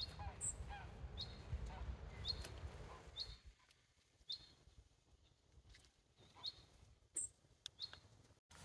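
A small bird calling repeatedly from the lakeside bushes: short, high chirps about once a second. A low rumble sits under the first three seconds.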